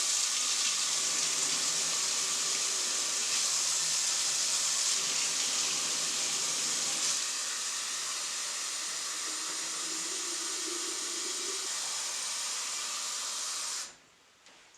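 Water running steadily from a tap into a jug, mixed to lukewarm. The flow gets a little quieter about halfway through and is shut off suddenly near the end.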